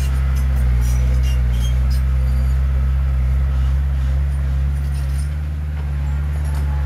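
Heavy diesel engine of earthmoving machinery running steadily under load, a deep, even drone, with faint light clinks and clicks of metal on top.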